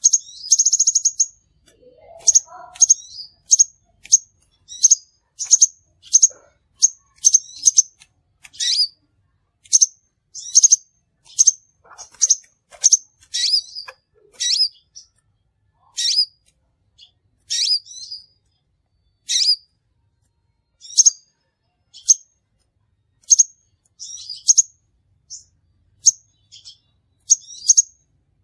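Crimson sunbird calling: a long series of short, sharp, high-pitched chirps, roughly one a second, with a brief buzzy trill about half a second in.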